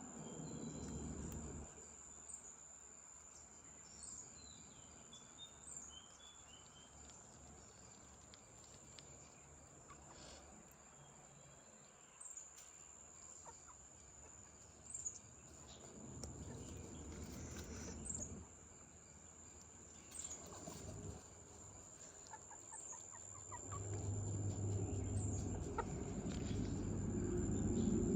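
Hens clucking now and then, over a steady high drone of insects. A low rumble swells in the last few seconds and is the loudest sound.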